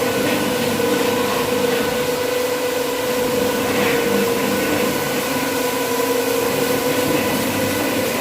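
Industrial carpet-cleaning machine running with a steady, unchanging hum.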